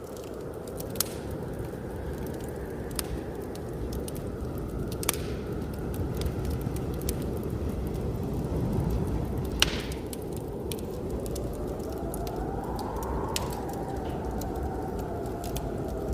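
Wood fire crackling with scattered sharp pops, over a steady low blizzard wind; from about two-thirds of the way in, the wind whistles in a tone that rises and then falls.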